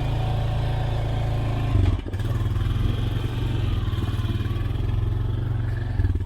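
Off-road vehicle's engine running steadily at low trail speed, with a jolt and a brief dip in the engine note about two seconds in and another jolt near the end.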